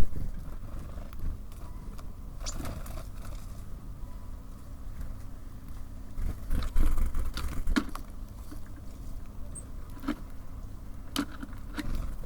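Steady low rumble of distant city traffic, with scattered sharp taps and clicks at a bird feeder: small birds landing and pecking at seed, a cluster of them in the middle and a few more near the end.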